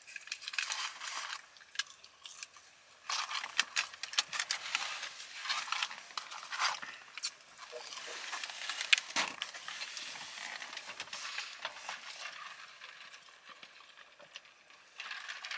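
Paper fast-food wrappers and bags crinkling and rustling as they are handled, in irregular bursts with sharp little crackles.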